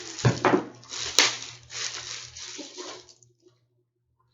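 Rustling handling noise with a few knocks and one sharp click, which cuts off suddenly to silence about three seconds in.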